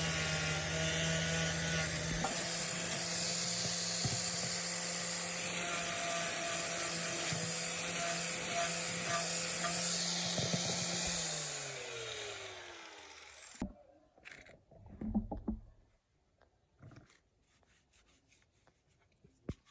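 Electric power tool running at a steady high speed, then switched off, its pitch falling as it spins down to a stop about two-thirds of the way through. A few faint clicks and handling sounds follow.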